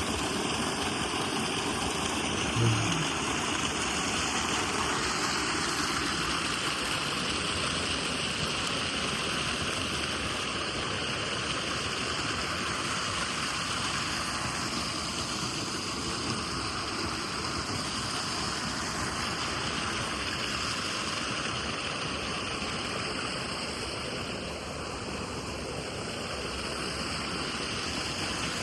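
Steady rush of flowing water, typical of the stream-fed channels and ponds of a trout farm. A brief low hum sounds once about three seconds in.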